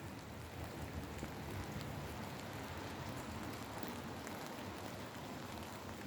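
Steady rain falling: an even hiss with scattered sharp drip ticks.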